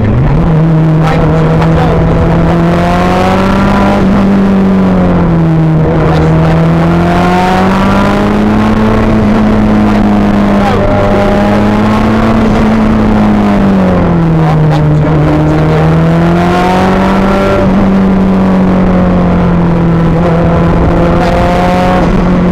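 Rally car engine heard from inside the car, running hard under load; its note dips sharply at the start, then rises and falls slowly over several seconds as the throttle is worked, with a few light clicks over it.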